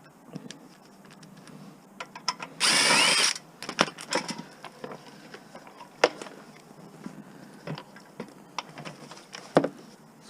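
A power drill runs in one short burst of under a second, then scattered clicks and knocks of tools and metal parts being handled.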